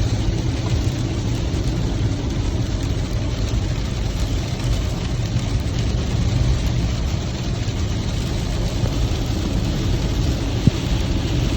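Steady rush of heavy rain heard from inside a vehicle, over a low vehicle rumble, with a single sharp click about ten and a half seconds in.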